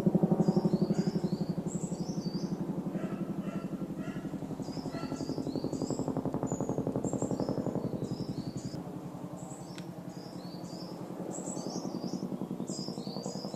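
Boeing CH-47 Chinook tandem-rotor helicopter flying over, its rotors beating in a fast steady pulse that is loudest at first and fades away after about nine seconds. Birds chirp repeatedly throughout.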